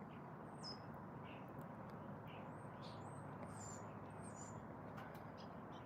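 Faint, high-pitched bird chirps and short gliding whistles, several scattered through the middle, over a steady background hiss.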